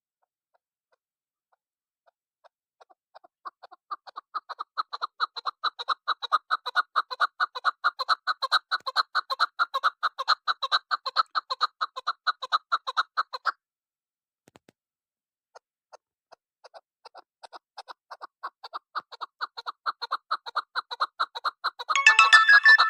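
Chukar partridge calling: a fast run of repeated clucking notes that builds up, breaks off about halfway, then starts again and swells into a louder, harsher burst near the end.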